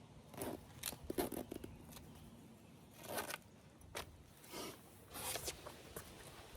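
A faint, irregular series of short scraping and rustling handling sounds, with a few sharp clicks.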